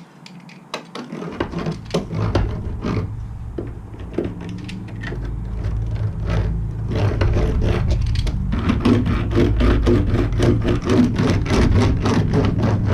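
Hands working sound-deadening mat onto a van's sheet-metal panel: a steady low rumble starts about a second in, with many quick clicks and scrapes that come faster and denser in the second half.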